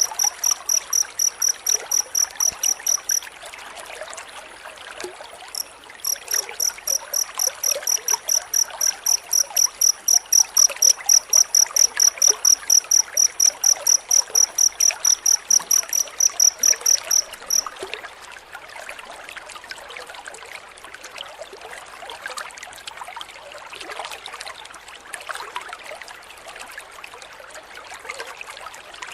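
Cricket chirping in a fast, even pulse of high-pitched chirps, about four a second. It pauses for a few seconds early on, then resumes, and stops a little over halfway through. A steady hiss like trickling water runs underneath throughout.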